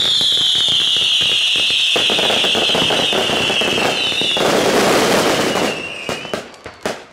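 Fireworks finale barrage: dense crackling and cracking shell bursts and fountains under a loud, continuous whistle that slowly falls in pitch. The barrage dies away about six seconds in, with a few last bangs near the end.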